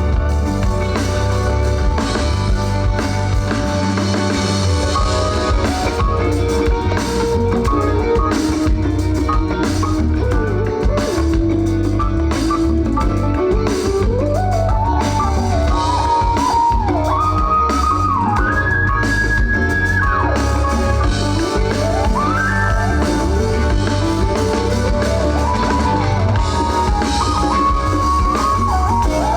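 Live band playing an instrumental passage: a steady drum kit, bass and guitar, with a lead melody that slides between long held notes in the second half.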